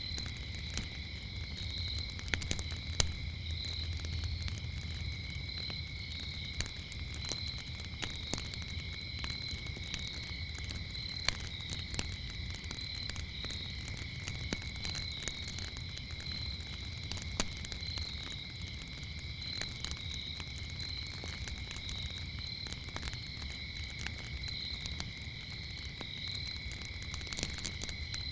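Wood fire crackling with irregular sharp pops, over crickets chirping steadily at two high pitches, with a low rumble underneath.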